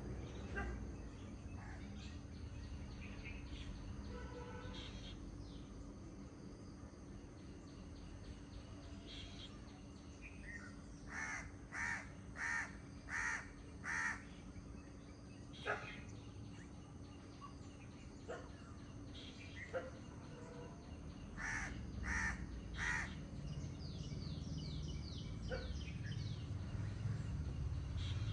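A bird giving harsh, crow-like caws: a run of five, then a pause and three more. Other small birds chirp throughout, over a low steady rush.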